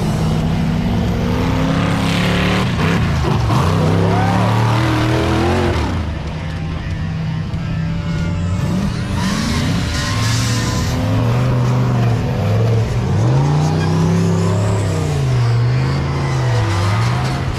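Off-road race trucks' engines running hard on a trail, with a deep engine drone. Near the end the engine pitch swings up and down several times as the throttle is worked on and off.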